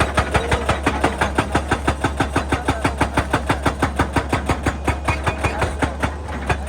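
Excavator-mounted hydraulic breaker hammer pounding rock in a fast, steady rhythm of about six blows a second, over the excavator's diesel engine running.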